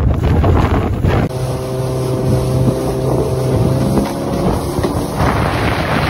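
Motorboat engine running at speed, with wind buffeting the microphone. A steady engine drone comes through from about a second in, drops a little in pitch after about four seconds, and then gives way to wind and water noise.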